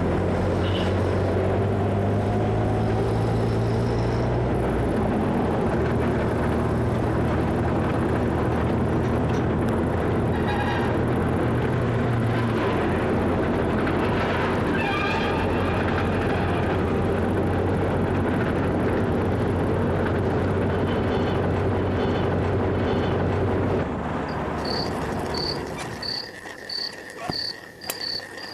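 A motor vehicle running steadily, dying away near the end. Frogs and crickets then call, with a high chirp repeating about every half second.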